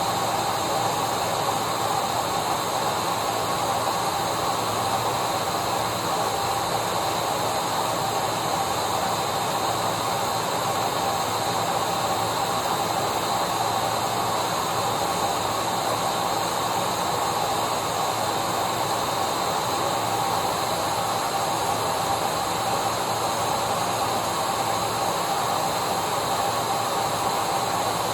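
Vacuum cleaner running at a steady speed: an even rush of air with a constant motor whine.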